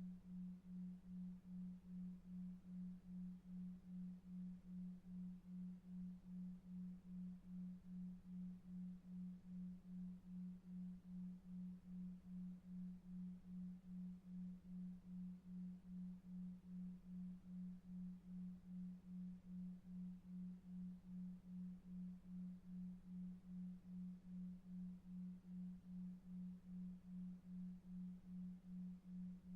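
A quiet, low pure tone pulsing evenly about two and a half times a second, a 2.5 Hz 'delta wave' pulsed tone for sleep, over faint brown noise.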